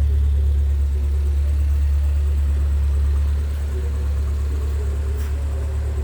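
Car engine idling steadily, a low even rumble that eases slightly about three seconds in.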